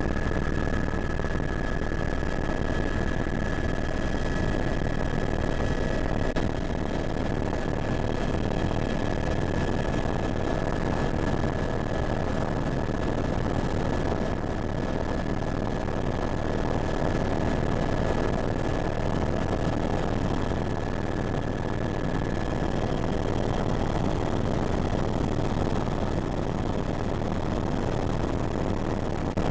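Helicopter engine and rotor running steadily: a constant dense rumble with a steady high whine over it.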